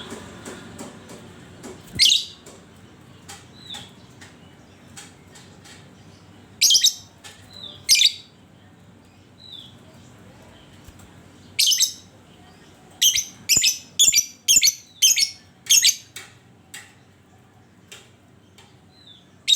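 Lovebird giving short, shrill, piercing calls in scattered bursts, with fainter chirps between them and a quick run of about six calls, two a second, in the second half.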